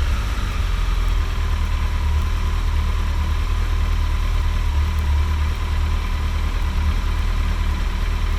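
2012 Kawasaki ZX-14R's inline-four engine idling steadily through its stock exhaust.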